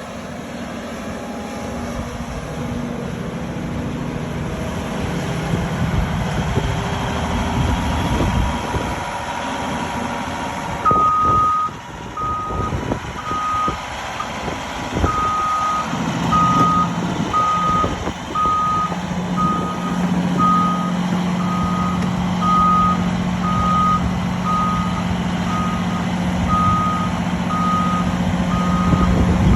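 Caterpillar 352F long-reach excavator working, its diesel engine running steadily, with a few heavy clunks near the middle. From about a third of the way in, a machine's warning alarm beeps steadily, a little over once a second.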